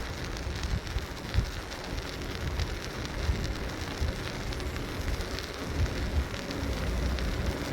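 Bicycle ride noise: wind buffeting the microphone in a low, uneven rumble, over the rush of tyres on pavement, with scattered small ticks and crackles.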